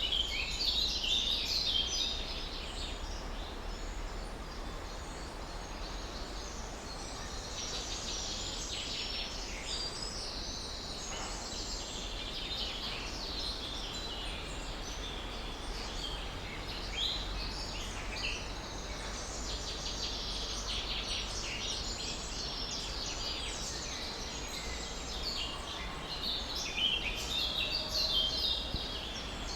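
Several small birds chirping and singing together in quick, overlapping high notes, busiest at the start and again near the end, over a steady low background rumble.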